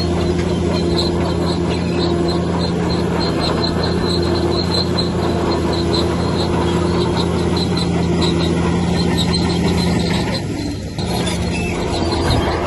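Heavy diesel engine of a bulldozer running steadily, with a rhythmic high squeak about three times a second. The engine note dips briefly about ten seconds in.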